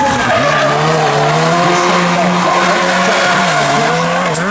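Rally car's engine at high revs under acceleration, the note holding steady and then dipping briefly twice near the end, as on a lift or gear change, before climbing again.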